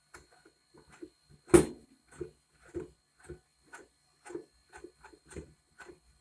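Uneven light knocks and clicks, roughly two a second, with one much louder thump about one and a half seconds in.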